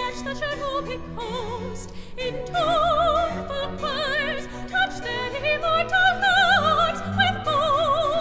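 Solo soprano singing long notes with a wide, even vibrato, accompanied by an orchestra in a classical operatic style.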